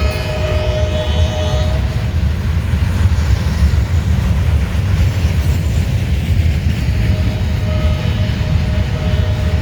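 Norfolk Southern freight train passing close by, its steady low rumble going on throughout. The locomotive's multi-tone horn sounds a chord that ends about two seconds in and sounds again near the end.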